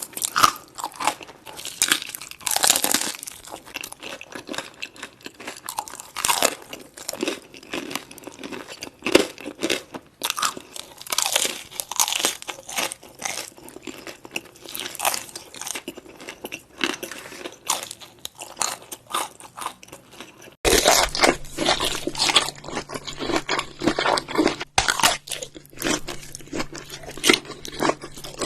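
Close-up crunchy biting and chewing of crisp food, with dense, irregular crackling crunches. About two-thirds of the way in the sound cuts abruptly to another take with a steady low hum underneath.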